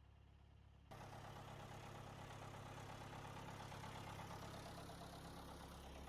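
Tractor engine idling steadily, coming in abruptly louder about a second in.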